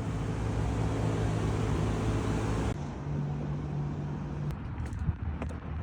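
Truck engine running steadily with a low drone; its tone shifts abruptly about three seconds in, and a few light clicks follow near the end.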